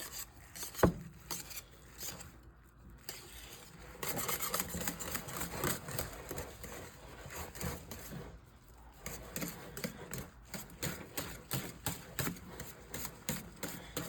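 A utensil scraping and rubbing against a pot as potatoes are mashed and stirred. There is one sharp knock about a second in, then quick, irregular scraping strokes through the rest.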